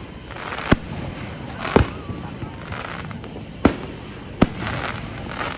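Aerial fireworks bursting: four sharp bangs spaced one to two seconds apart, with crackling and fizzing between them.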